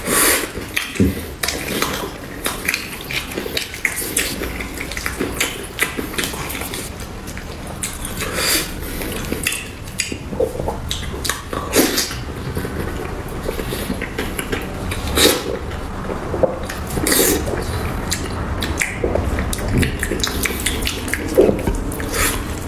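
Close-miked eating sounds: wet chewing and lip-smacking on soft, saucy braised pork, in many short irregular smacks and squelches.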